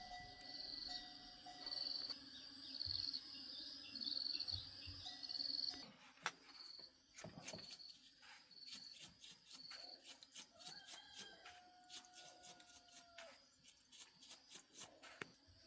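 Insects chirping in a steady high pulse, joined in the second half by a series of light clicks and taps and a short held whistle-like call.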